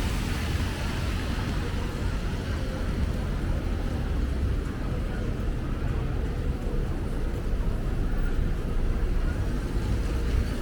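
Steady city street traffic noise on rain-wet streets, a continuous low rumble with no distinct events standing out.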